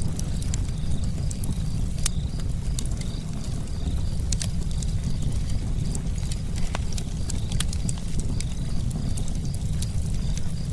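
Campfire crackling: wood burning with many irregular sharp pops and snaps over a steady low rumble of the flames.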